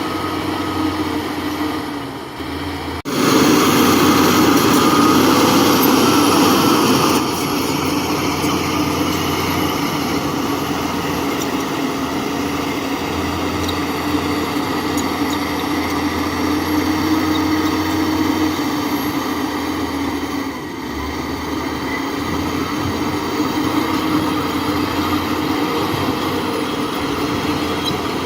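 Heavy diesel engine of construction machinery running steadily, with a held engine tone; it is louder for about four seconds starting about three seconds in, then settles back to a steady run.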